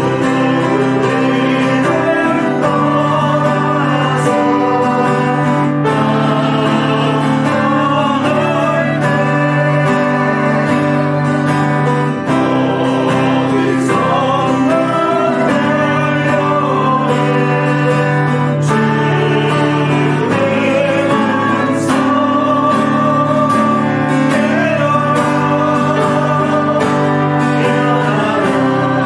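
Church praise team performing a worship song: singing over guitar and sustained bass accompaniment.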